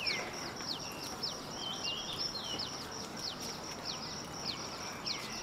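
Birds chirping over a steady outdoor background hiss: a run of short, quick downward-sliding chirps, a few each second, with a faint steady high tone above them.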